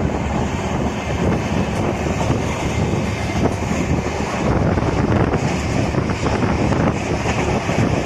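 Passenger train running at speed: a steady rumble of the coach on the track, with wind buffeting the microphone.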